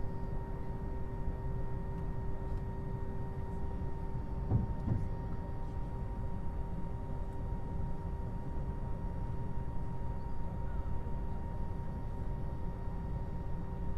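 Steady low rumble of airport noise with a constant electrical or machinery hum, and a single brief thump about four and a half seconds in.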